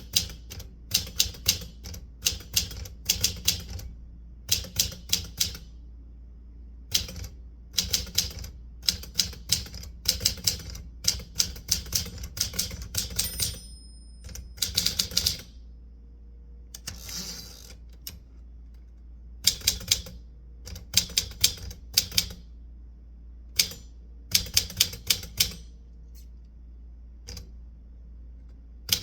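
Typewriter keys striking in quick runs of sharp clicks with short pauses between runs. About halfway through comes a brief ringing tone, followed shortly by a hazy, rasping sound about a second long.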